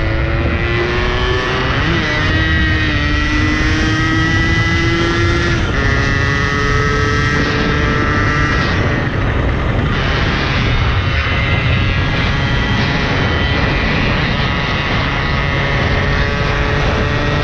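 Yamaha RX-King's two-stroke single-cylinder engine running under way, its note climbing slowly and shifting a couple of times as the bike is ridden along, with wind rumble on the microphone.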